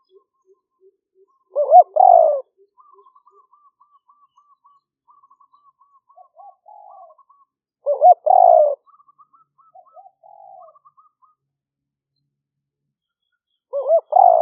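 Spotted dove cooing: three loud phrases about six seconds apart, each a quick run of rolling coos. A fainter bird keeps up a thin repeated trill between the phrases.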